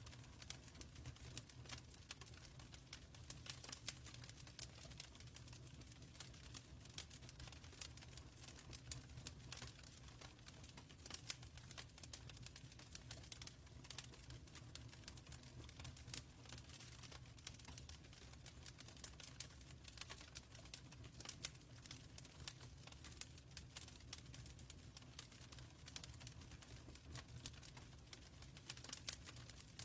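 Quiet wood fire in a fireplace crackling, with frequent small irregular pops over a low steady rumble.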